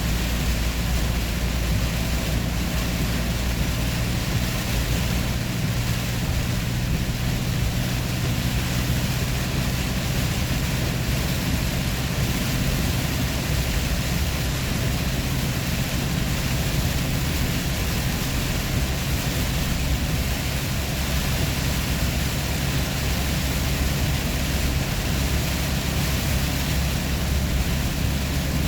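Vehicle cabin noise while driving: a steady low engine drone with tyre and road rumble.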